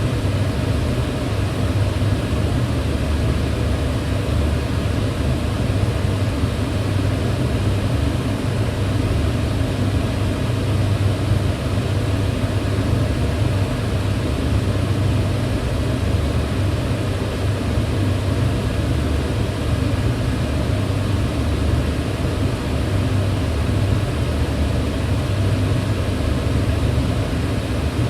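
Kitchen range hood fan running steadily: a constant rush of air over a low hum.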